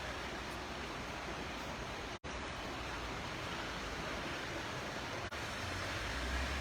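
Steady rushing noise of running water. The sound cuts out completely for a moment about two seconds in, and a low rumble builds near the end.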